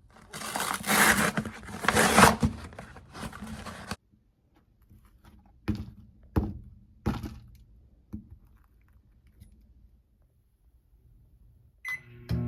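Crackling and rustling of a frozen pot pie's cardboard carton and plastic film being opened and peeled for about four seconds, then three sharp knocks a little over half a second apart, and a short beep near the end from the microwave keypad.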